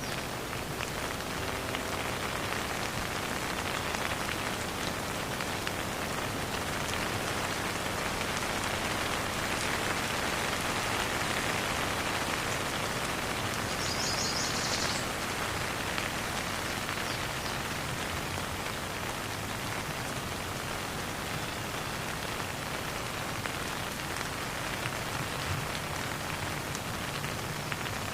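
Steady rain falling and pattering on surfaces, an even, continuous hiss that swells slightly in the middle. There is a brief faint high chirping about halfway through.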